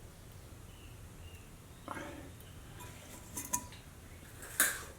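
A few light clicks and clinks of small-tool handling in the open Sony WM-B18 Walkman mechanism while pieces of its disintegrated rubber drive belt are picked out; the sharpest click comes near the end.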